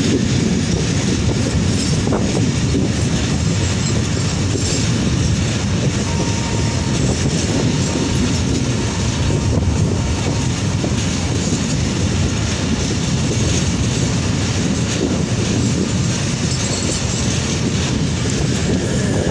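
Passenger train running at speed, heard from an open carriage window: a steady, loud rumble and rattle of the wheels on the track.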